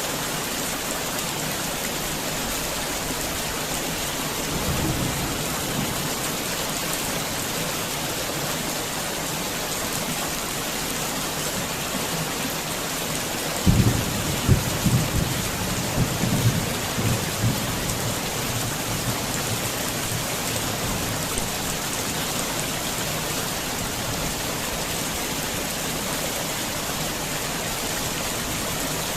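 Heavy rain pouring steadily. About fourteen seconds in, a sudden thunderclap rumbles on in several rolls for about four seconds, and a fainter low rumble comes around five seconds in.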